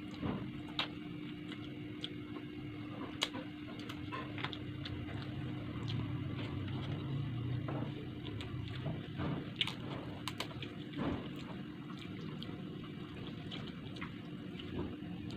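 Close-up eating sounds of milkfish and rice eaten by hand: wet chewing with scattered sharp mouth clicks and smacks, over a steady low hum.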